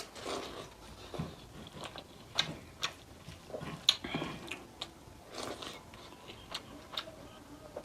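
A person eating mutton nalli and rice close to the microphone: chewing, with irregular wet mouth clicks and smacks.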